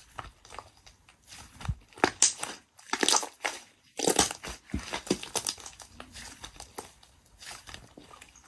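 Irregular crinkling and crunching, a run of sharp crackles coming in clusters that are loudest from about two to five seconds in, then quieter.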